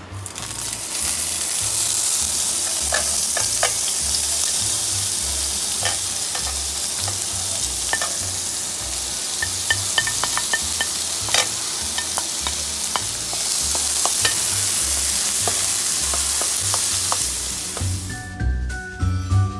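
Sliced sausage, diced onion and green pepper sizzling in hot oil in a frying pan, with scattered clicks and scrapes as a utensil pushes the food off the plate and stirs it. The sizzle starts within the first second and drops away near the end.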